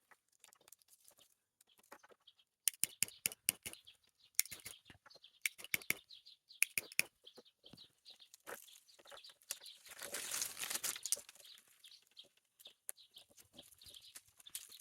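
Irregular crinkling and clicking of a thin strip cut from a plastic bottle as it is handled and wound around a swing hinge. The sound is denser for about a second near the middle.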